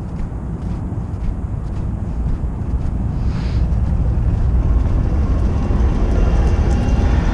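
A heavy vehicle approaching, its low rumble growing steadily louder, with a brief hiss about three seconds in.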